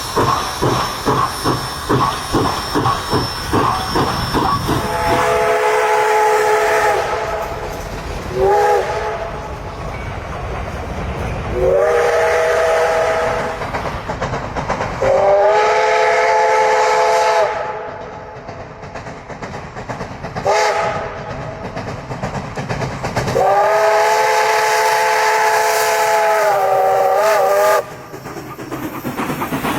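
Steam locomotive working, its exhaust chuffing at about two beats a second, then its chime whistle sounding a chord of several notes in a series of long and short blasts over a steady steam hiss.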